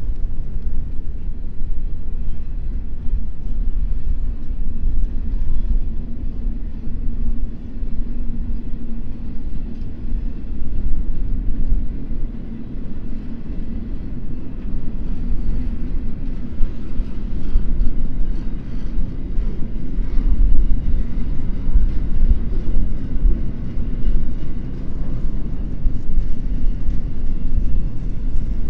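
Intermodal freight train rolling past, a steady low rumble of wagon wheels on the rails.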